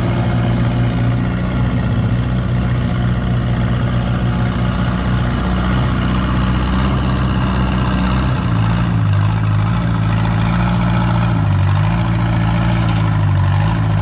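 Small antique Ford tractor's engine running steadily under load while pulling the sled. Its note drops a little about eight seconds in and wavers as the pull goes on.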